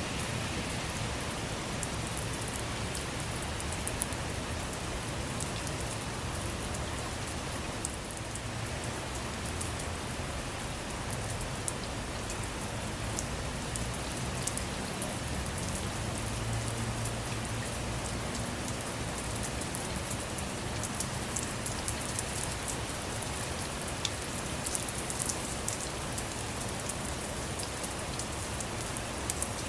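Steady rain falling on a car, heard from inside, with many individual drops ticking sharply over the even hiss of the downpour.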